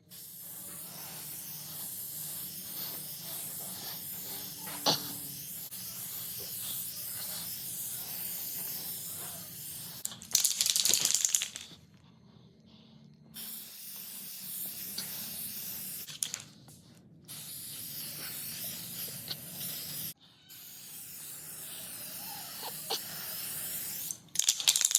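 Paint being sprayed onto a wooden shelf board: long, steady hissing passes broken by short pauses, with a louder, brighter spray spell about ten seconds in and again near the end.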